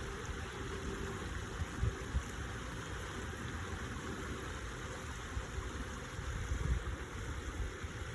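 Stream water running steadily, with low wind buffets on the microphone that rise around two seconds in and again near the end.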